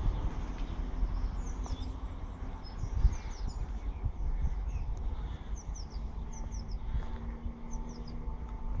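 Small birds chirping: several quick runs of short, high chirps, over a steady low outdoor rumble.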